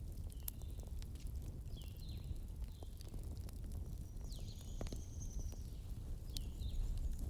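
Campfire burning: a steady low rumble with sharp crackles and pops scattered through it. Short high chirps sound now and then in the background, and a longer high note comes about halfway through.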